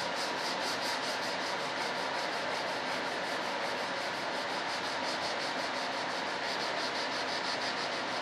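Sandpaper on a firm sanding block rubbed back and forth in quick, even strokes, about five a second, over the smoothed surface of a model jet part. A steady hiss runs underneath, and the strokes stop at the very end.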